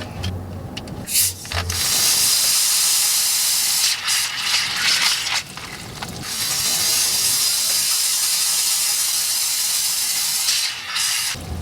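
A Sprite bottle loaded with Mentos erupting: soda foaming out with a loud hiss, in two long spells, the first about two seconds and the second about four seconds.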